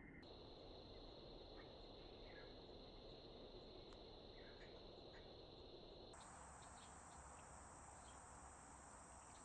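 Faint, steady, high-pitched insect drone from crickets or cicadas in sped-up timelapse audio, jumping abruptly up in pitch about six seconds in, with a few faint short bird chirps over it.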